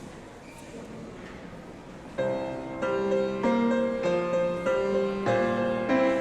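A brief hush of room tone, then about two seconds in a piano begins playing sustained chords: the introduction to the next piece, before the flutes come in.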